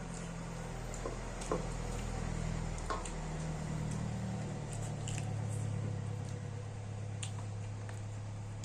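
Close-up eating sounds: chewing with small wet squelches and mouth clicks, a few short clicks scattered through, over a steady low hum.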